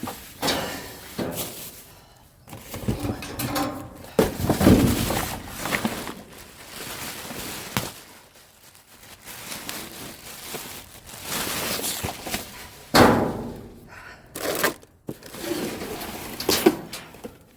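Rummaging through a dumpster: irregular thunks and knocks with rustling between them as cans and bags of trash are shifted about, the sharpest knocks about thirteen seconds in and again near the end.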